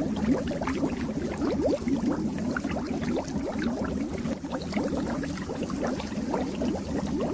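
Fish tank water bubbling steadily: a dense stream of small bubbles over the low hum of the tank's pump.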